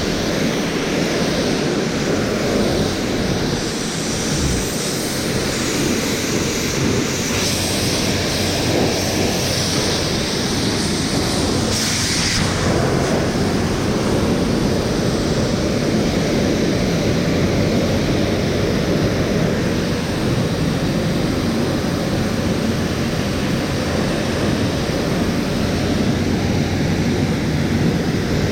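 Pressure washer running steadily, its water jet hissing as it sprays the fiberglass shell of a truck camper.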